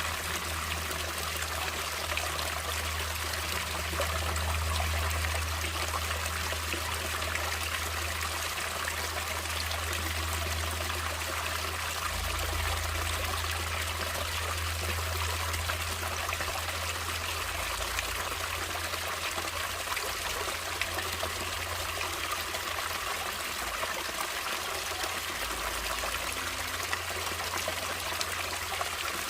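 Stream water trickling and splashing over rocks, a steady, even rush with a low rumble underneath.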